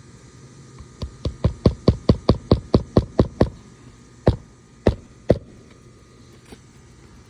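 Hammer driving a roofing nail into a shingle: a quick run of about a dozen strikes, roughly five a second, then three slower, spaced blows.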